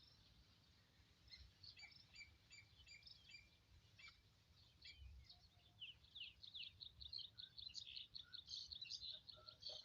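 Faint birds chirping, with scattered high notes at first and a fast run of repeated falling chirps from about halfway through.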